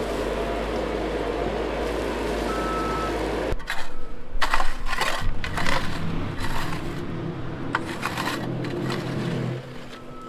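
A steady rumble like a vehicle running, which cuts off abruptly about three and a half seconds in. A run of sharp knocks and clatter follows, over a lower steady hum.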